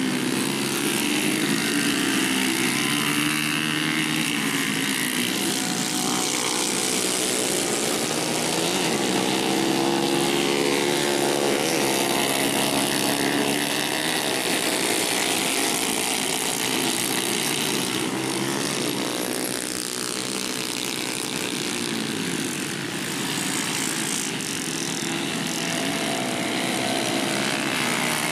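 Several small-displacement motorcycle engines running at high revs, their pitch rising and falling in overlapping waves as the bikes accelerate and pass.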